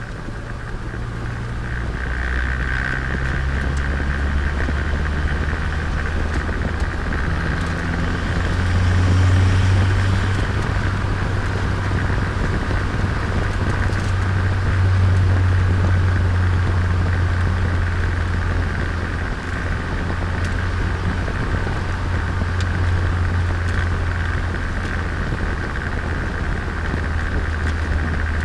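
Turbocharged Nissan Micra engine running under way, heard from on board the car, with a steady low drone whose pitch shifts and swells as the throttle and revs change. It is loudest about ten seconds in and again a few seconds later, over steady road noise.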